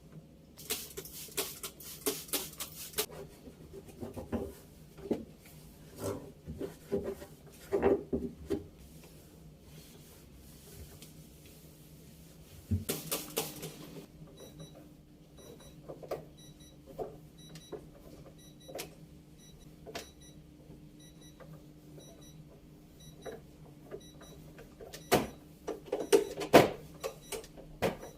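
Household handling sounds while a refrigerator is emptied and cleaned: scattered clicks, knocks and rustling of containers and shelves over a low steady hum. From about halfway, a faint high tick repeats at an even pace.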